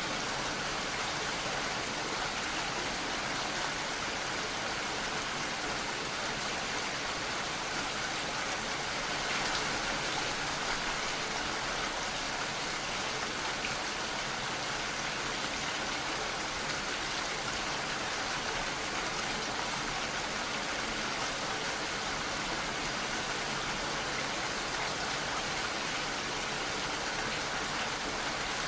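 Steady, even rainfall, a dense hiss of many drops with no single drop standing out.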